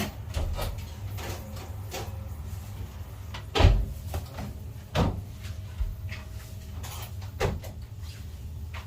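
A few irregular knocks and clunks, like things being handled or a door or cupboard shutting, the loudest about three and a half seconds in, over a steady low hum.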